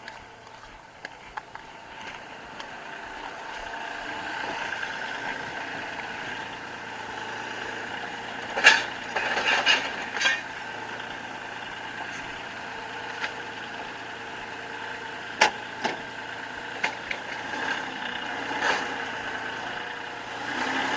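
Kubota L3560 tractor's diesel engine running steadily as its hydraulics strain to lift a Chevy engine that is frozen to the ground. Several sharp metal clanks and knocks come from the motor puller and the load, the loudest about nine seconds in and again around fifteen seconds.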